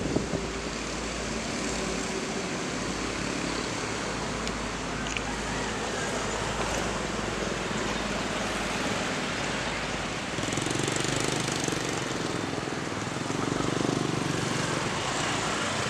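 Steady road and traffic noise at a level crossing, with vehicles swelling past about ten and fourteen seconds in.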